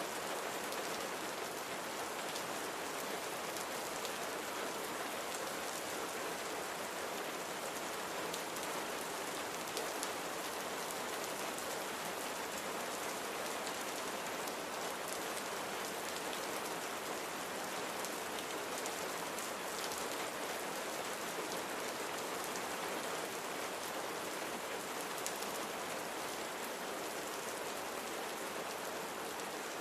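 Steady rainfall: an even hiss of rain with fine drops pattering on a surface.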